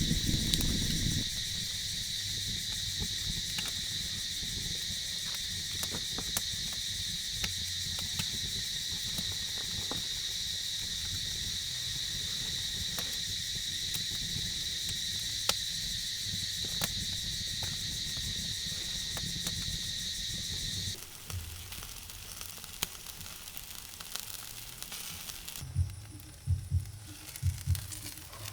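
Steady, high-pitched insect chorus, crickets or similar, that cuts off abruptly about two-thirds of the way through. A few dull thumps follow near the end.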